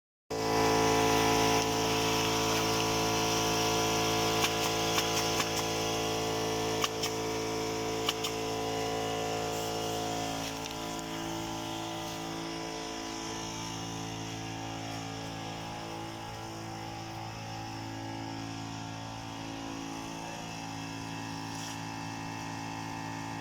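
A motor running steadily, with a few sharp clicks in the first half. It drops a little in level about ten seconds in.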